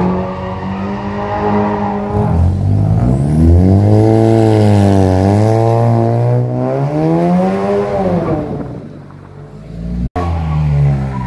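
Car engine heard from inside the cabin while driving, its revs rising and falling several times as it accelerates and eases off. It quietens about nine seconds in, and there is a momentary dropout just after ten seconds.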